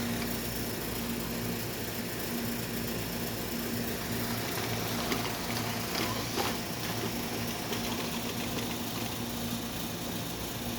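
A small motor running with a steady, gently pulsing hum, with a few light clicks about halfway through.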